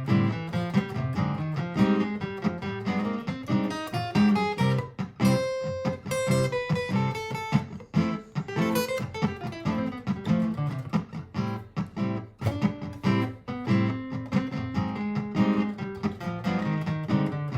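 Martin GPCPA4 acoustic guitar played through a looper: a looped chord part keeps going underneath while improvised picked melody lines run over it. About five seconds in, one bright ringing note stands out.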